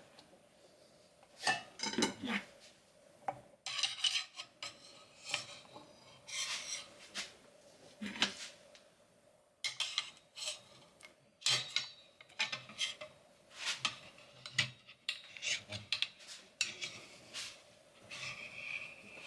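Irregular rubbing and scraping with scattered light metal clinks: hands and tools working a greased rubber axle boot on a VW swing-axle tube.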